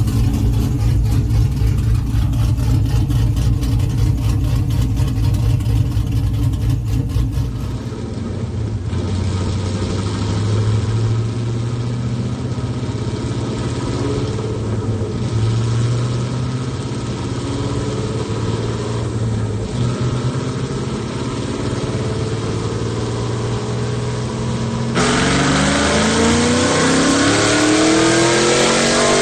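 The 2002 Camaro SS's 6.0-litre LS V8, with a custom cam, running in several cut-together clips. Near the end it accelerates, its pitch rising steadily.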